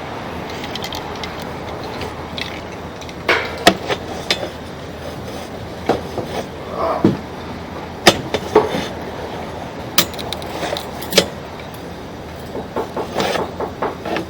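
Sewer inspection camera's push cable being fed into a PVC cleanout line, with scattered sharp clicks and knocks over a steady outdoor hum.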